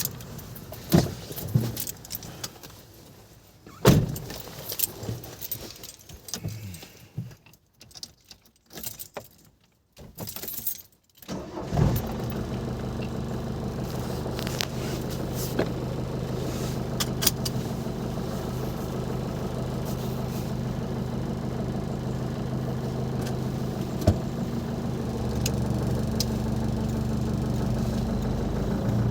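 A few clicks and knocks, then about twelve seconds in a Ford Transit Mk5's 2.5-litre diesel engine starts and settles into a steady idle.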